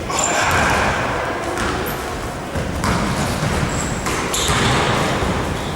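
Basketball game in a gym: the ball bouncing on the court amid echoing hall noise, with a couple of short high squeaks.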